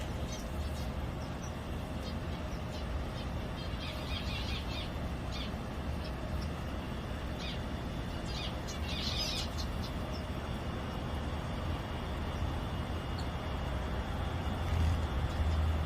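Small aviary birds chirping in short high twittering bursts, the fullest about four and nine seconds in, over a steady low rumble.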